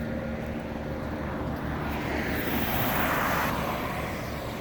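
A passing vehicle: a rushing noise swells to a peak about three seconds in and fades away, over a steady low rumble of traffic.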